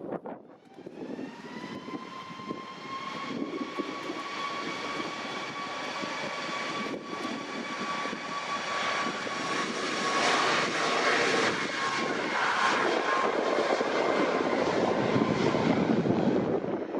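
Jet airliner engines spooling up for a take-off run. A whine rises in pitch about a second in and then holds steady, while the jet roar grows louder toward the end.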